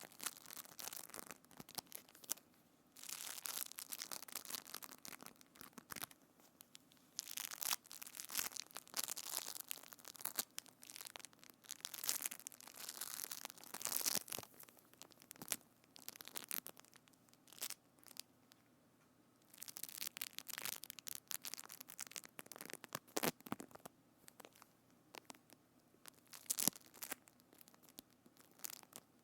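Close-up crackling, crinkling handling sounds on a binaural microphone, coming in irregular bursts with short pauses.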